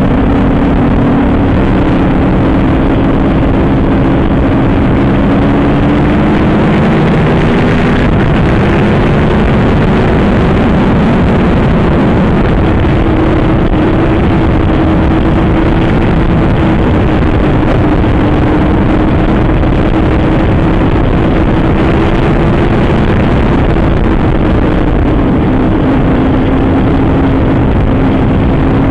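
Superbike engine running hard at road speed, its pitch drifting slowly up and down with the throttle, under a loud, steady rush of wind, heard through a phone camera inside the rider's helmet.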